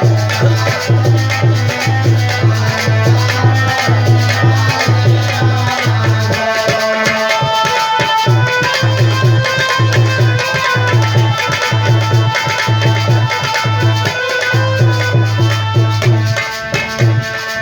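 Instrumental interlude of a Hindi devotional folk song: a hand drum keeps a steady beat of about two deep strokes a second under a melody instrument playing held notes, the drum dropping out briefly about halfway through.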